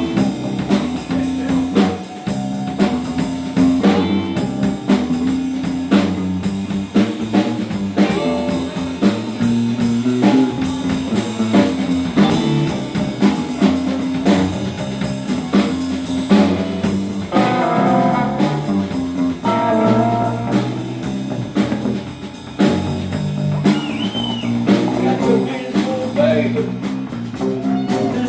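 Live blues-rock band playing an instrumental passage: guitars, bass guitar and drum kit, with a guitar lead line coming forward about two-thirds of the way through.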